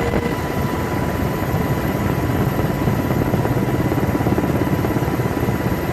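Steady aircraft engine noise, a dense even rumble with a fast flicker in the low end.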